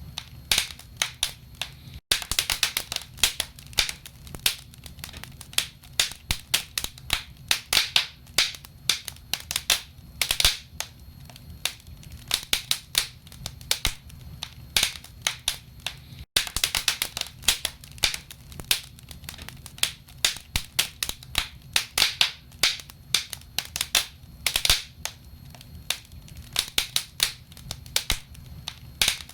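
Burning firewood crackling in a fireplace: dense, irregular pops and snaps over a low rumble. The sound cuts out for an instant twice.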